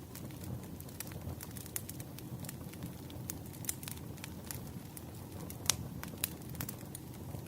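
Campfire burning, with a steady low rumble and irregular crackles and pops of burning wood; the loudest pop comes near the end.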